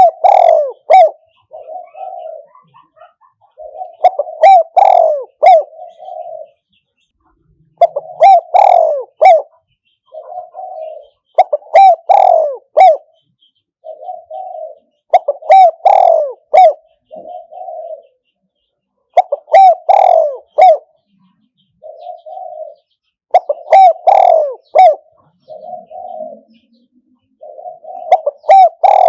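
Spotted dove decoy cooing: a phrase of a few loud coos followed by a softer coo, repeated about every four seconds.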